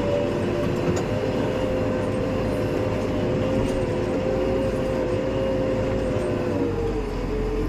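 JCB backhoe loader's diesel engine running under load with a steady whine from the hydraulics, dipping slightly in pitch near the end.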